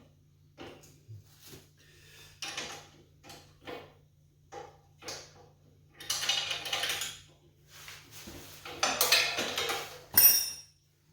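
Metal hand tools and bolts clinking and rattling as they are handled, with two longer stretches of rattling about six and nine seconds in and a ringing metallic clink near the end.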